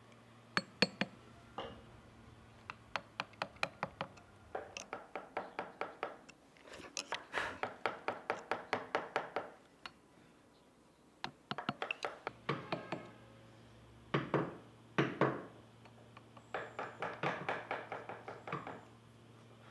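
Carving chisel driven into wood with quick, light mallet taps. The taps come in runs of a few seconds, about five a second, with short pauses between runs.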